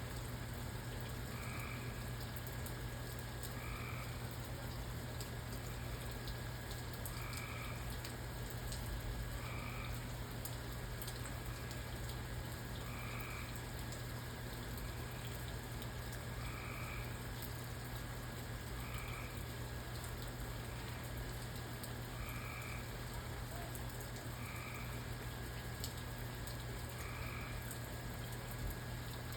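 A frog calling over and over, a short call every two to three seconds, over faint rain, a steady low hum and a thin steady high tone.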